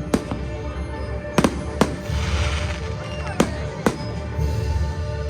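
Fireworks display: about five sharp bangs spaced roughly half a second to a second and a half apart, with a spell of crackling about two seconds in. Music plays underneath.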